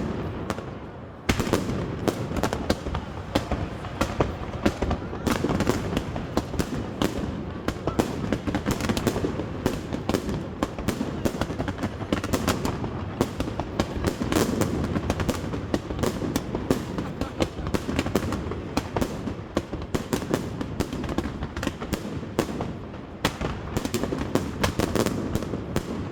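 Fireworks going off in a dense volley: rapid bangs and crackles overlap almost without a break, after a brief lull in the first second.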